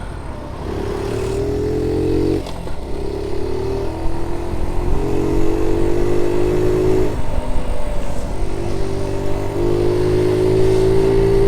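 Honda Z50J monkey bike's small single-cylinder engine running under way, its note breaking off and picking up again several times as the rider changes gear and throttle, with low wind rumble on the microphone.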